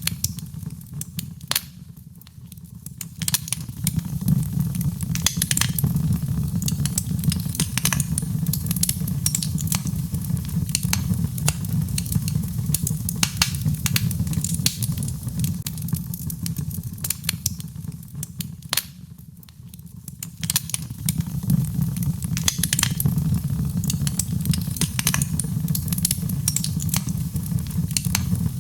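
Birchwood fire burning in a fireplace: dense, irregular sharp crackles and pops over a steady low rumble of the flames. The whole sound drops away briefly twice, then comes back.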